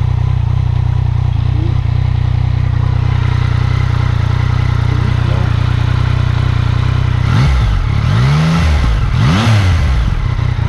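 2019 Yamaha MT-09's 847 cc three-cylinder engine idling steadily, then revved up and let fall back twice in quick succession near the end.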